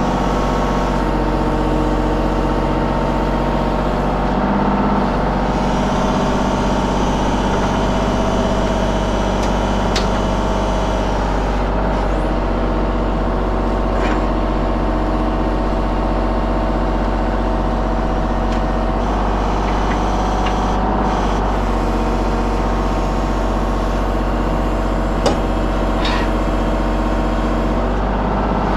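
Mini excavator's diesel engine running steadily, with a few brief clicks or knocks.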